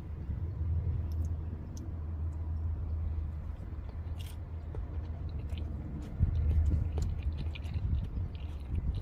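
A person chewing and biting food close to the microphone, with small crunching clicks, over a steady low rumble that swells briefly about six seconds in.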